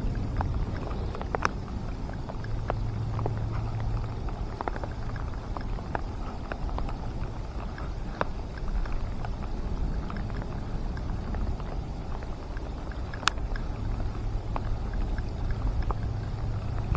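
Rain falling, with scattered sharp ticks of drops landing close by over a steady low rumble.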